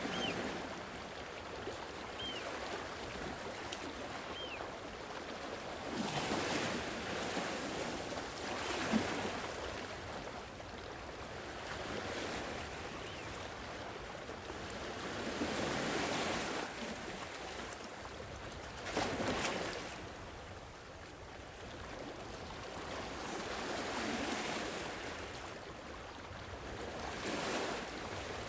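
Sea waves washing onto the shore, swelling and falling back every few seconds over a steady hiss of surf. A few faint short high chirps sound in the first few seconds.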